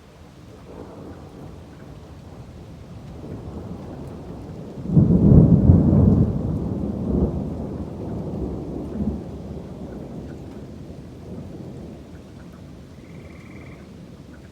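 Thunder rolling during a summer rainstorm over steady rain. The rumble builds gradually, breaks loud about five seconds in, then dies away slowly with a couple of smaller rolls.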